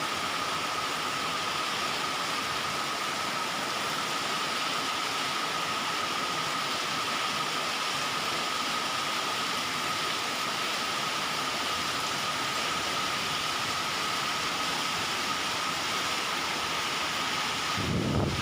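Heavy rain falling steadily, an even hiss with a thin high-pitched tone running through it; a brief low rumble comes in near the end.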